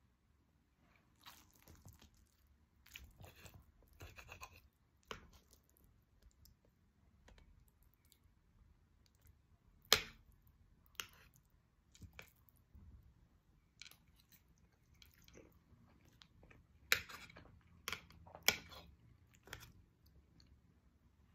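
A person chewing a chile omelette close to the microphone: soft, irregular chewing and mouth sounds broken by scattered sharp clicks, the loudest about halfway through and several more close together near the end.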